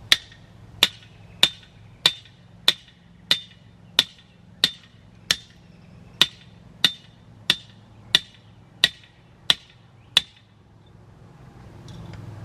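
A hammer driving a nail with steady, evenly spaced blows, about three every two seconds, each with a short metallic ring. The blows stop about ten seconds in.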